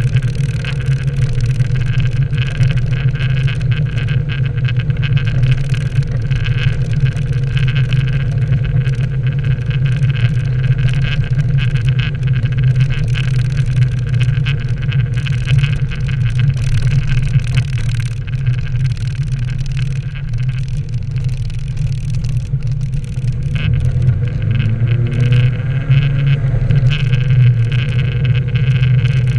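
Nissan 240SX (S13) engine running steadily while the car drives, a constant low drone with road noise; about three-quarters of the way through the engine note climbs briefly as it revs up.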